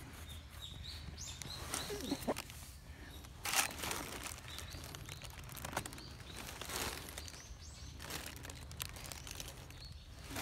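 Small birds chirping in short calls, heard over a steady low outdoor hum, with a brief rustle about three and a half seconds in.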